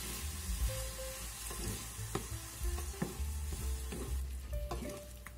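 Shrimp, squash and mushroom stir-fry sizzling in a frying pan as a thin starch slurry goes in to thicken the sauce, stirred with a wooden spatula, with a few light taps of the spatula against the pan.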